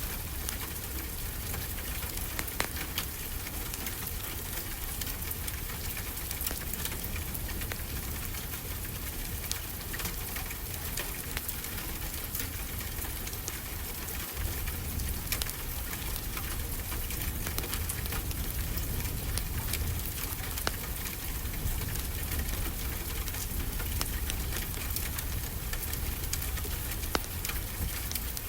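Ocean waves washing onto a shore, a steady noise with a low rumble, mixed with the frequent small pops and crackles of a wood fire.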